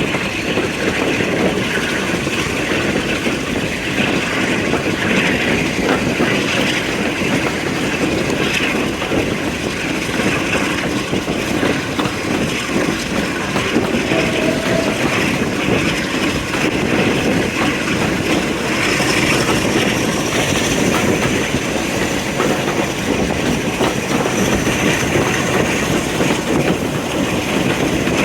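Train running along the track: a steady rumble and rattle of wheels and wagons, with a faint high whine coming in about two-thirds of the way through.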